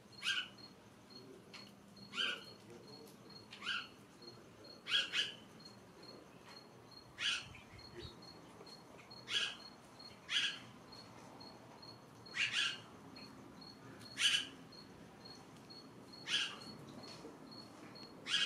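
A bird giving a short, sharp chirp over and over, about every one to two seconds. A faint, steady, high pulsing tone runs beneath it, at about three pulses a second.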